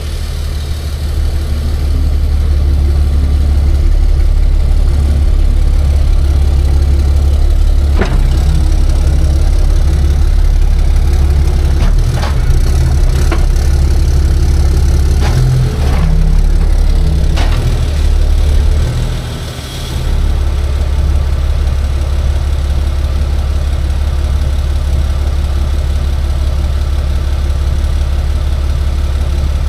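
Truck engine running steadily at a low idle-like hum, with a handful of sharp clicks or knocks in the middle stretch and a brief drop in level about two-thirds of the way through.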